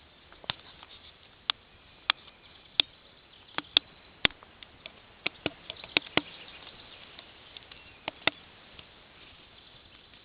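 A run of sharp, irregular clicks and snaps, about a dozen, most of them in the middle of the stretch and thinning out near the end.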